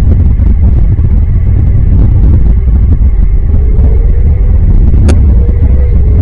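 Loud, steady low rumble. From about halfway, a faint droning tone drifts slightly up and then down, and a single sharp click comes about five seconds in.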